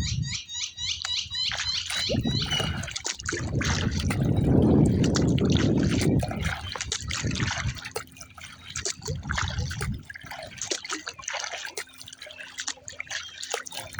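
Water trickling, dripping and splashing around a kayak as it is paddled, with a loud low rumble of wind on the microphone in the middle. A bird chirps in a quick repeated series over the first two seconds or so.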